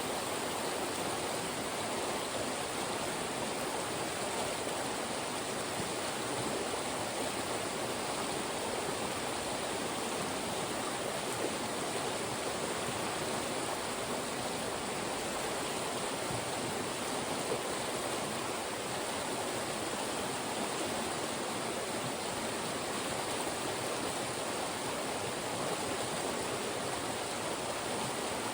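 Fast-moving mountain stream rushing through funnels of rocks: a steady, unbroken wash of water.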